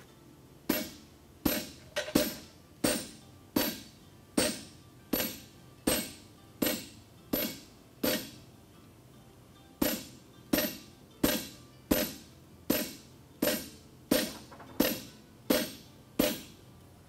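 Hammer blows on hot steel over an anvil while forging a horseshoe, each a sharp ringing strike. There are two steady runs of about ten blows each, roughly one and a half blows a second, with a pause of about two seconds just after the middle.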